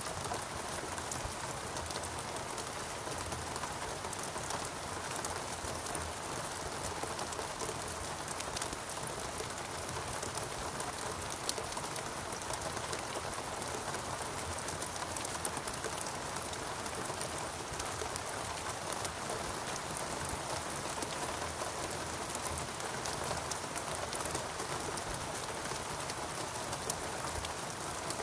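Steady rainfall pattering on foliage and surfaces, an even hiss of countless drops with scattered sharper drips.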